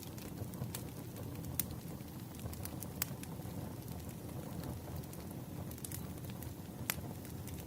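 Wood fire burning, a steady low rush of flame with irregular sharp crackles and pops of the burning logs; one louder pop about seven seconds in.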